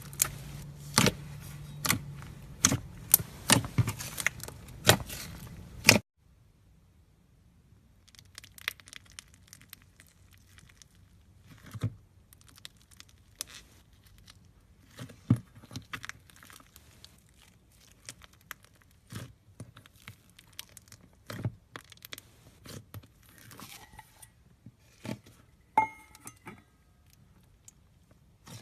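Styrofoam-bead (floam) slime being squeezed and worked by hand, giving sharp crackles and pops as the beads press and rub together. The first six seconds are loud and dense over a faint low hum, then it cuts to quieter, sparser crackling.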